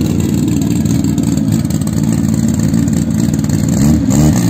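Drag-racing car engine idling with a rapid, steady pulse, then revved up and back down near the end.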